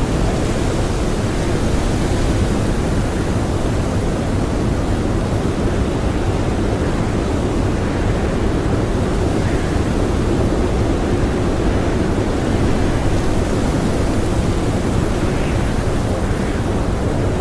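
Blizzard wind blowing steadily: a dense, even rush weighted toward the low end, swelling and easing only slightly.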